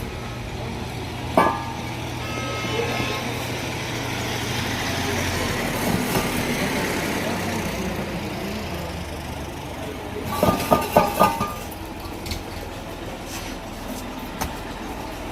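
A vehicle engine running steadily. A short high tone comes about a second and a half in, and a quick run of short tones about ten seconds in.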